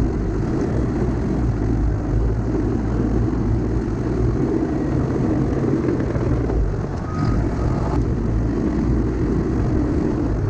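Heavy earthmoving machine's diesel engine running steadily, with a backup alarm giving a short beep about seven seconds in.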